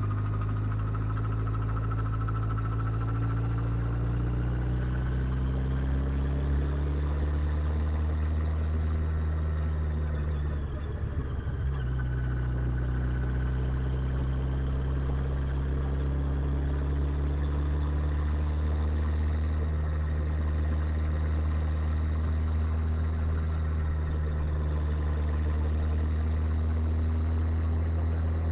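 Motorcycle engine running steadily while riding, its note rising and falling slowly, with a short dip about eleven seconds in.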